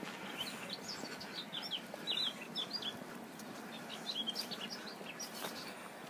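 A small songbird twittering: two quick runs of short, high chirps, the second starting about four seconds in.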